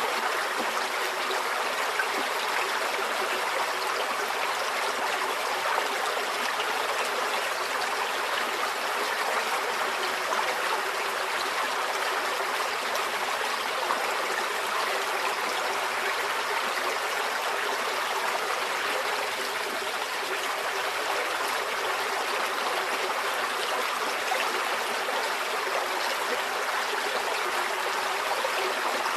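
Small stream flowing steadily over rocks, an even babble and trickle of water.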